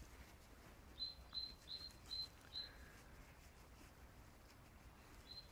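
A small bird calling: a run of five short, high chirps about a second in, and another run starting near the end, over near silence.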